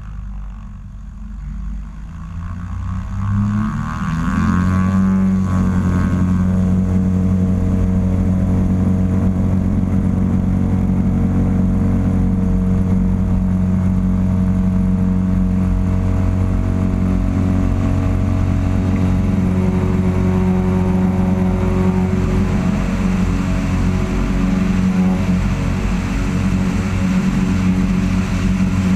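Cessna 172XP's six-cylinder Continental IO-360 engine and propeller going from low power to full takeoff power. The pitch rises over about two seconds, starting a few seconds in, and then the engine runs steady at full throttle for the takeoff run.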